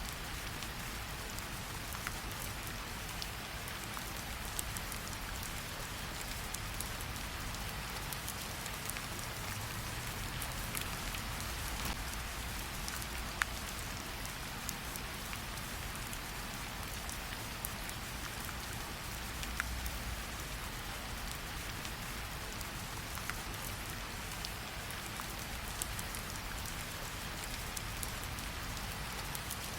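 Steady rain with the occasional sharp crackle and pop of a campfire.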